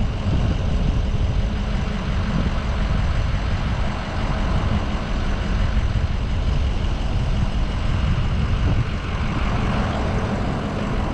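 Steady wind buffeting and road rumble heard inside the cab of a moving 4x4 truck with the windows down.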